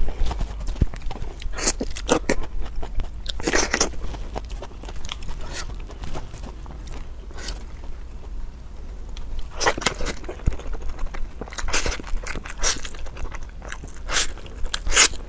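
Close-miked chewing and biting of chili-sauced enoki mushrooms, wet mouth clicks coming in bunches every second or two. There is a quieter lull between chews in the middle.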